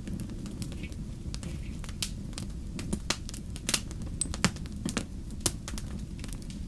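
Wood fire in a fireplace crackling: irregular sharp pops and snaps over a steady low rumble of the flames, with the loudest pops in the middle.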